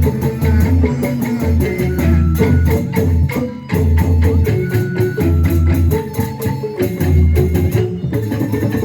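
Instrumental passage of band music: a steady beat of drums and percussion over a pulsing bass, with a melodic instrument playing held notes and runs.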